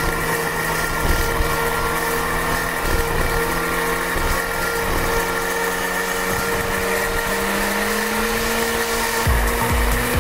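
Onboard sport motorcycle engine running at steady high revs through a long corner, its pitch rising gently near the end as the bike accelerates out. A thumping music beat comes in about nine seconds in.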